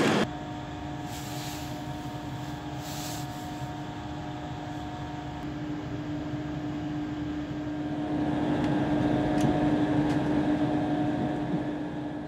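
Electric train running, heard from inside the carriage: a steady hum with held tones, with a couple of short hisses in the first few seconds, growing louder about eight seconds in.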